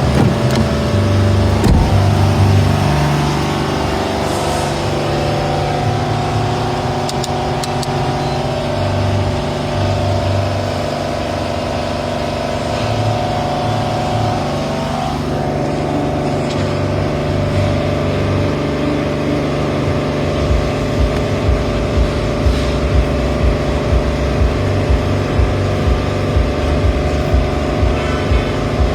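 A car engine running steadily, with a regular low pulsing of a bit over one beat a second starting about two-thirds of the way in.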